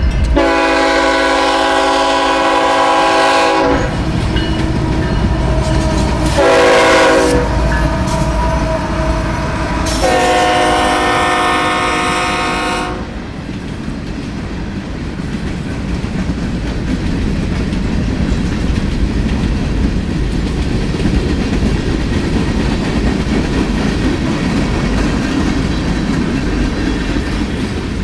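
Kansas City Southern freight locomotive's multi-chime air horn blowing a long blast, a short one and another long one, then the steady rumble and clickety-clack of freight cars rolling past.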